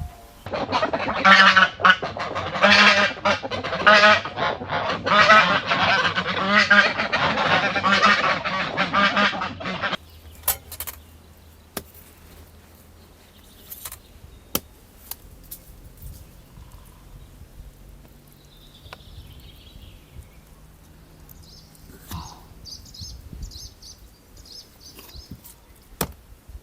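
A flock of domestic waterfowl calling loudly and continuously for about ten seconds, then stopping abruptly. Afterwards there are only scattered faint clicks and a few small bird chirps near the end.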